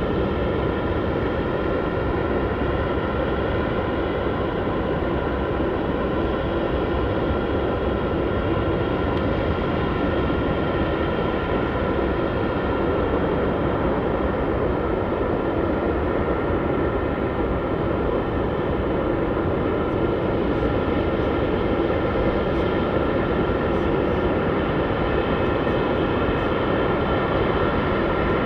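Jet airliner engines running steadily: an even rumble with a whine of several steady tones above it, holding constant throughout.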